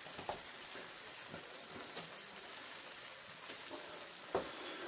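Breaded chicken pieces and sauce sizzling in a frying pan: a faint steady hiss with a few small pops and crackles.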